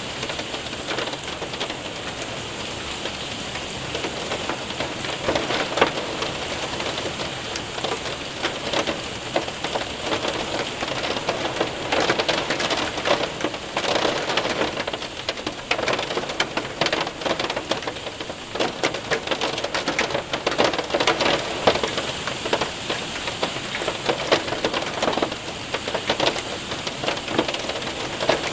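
Hail and rain pelting a window and roof, a dense steady patter with many sharp individual ticks of hailstones striking.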